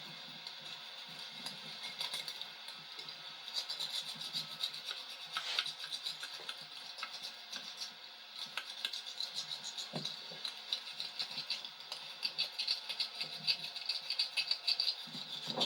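Rubber tractor inner tube being roughed up by hand with a rasp for patching: irregular scraping strokes with small rattles and clicks, getting busier in the last few seconds.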